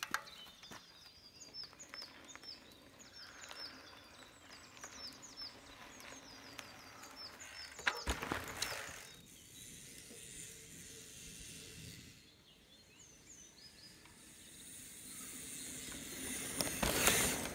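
A small bird singing a long run of quick, repeated high chirps, pausing and starting again later. A short rush of noise comes about eight seconds in, and a louder one builds near the end.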